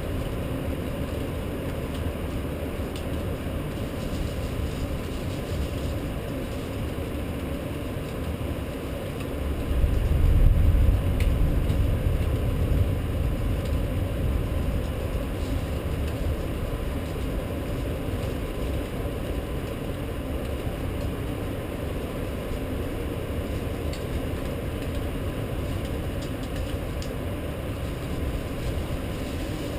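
Steady low rumbling background of a rainstorm, with a deep rumble of thunder swelling about ten seconds in and fading away slowly over several seconds.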